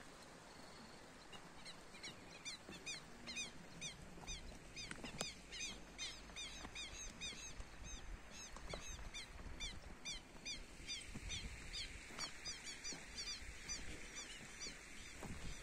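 Birds chirping in a rapid, continuous series of short rising-and-falling notes, several a second, starting about a second and a half in, over a low rumble of wind on the microphone.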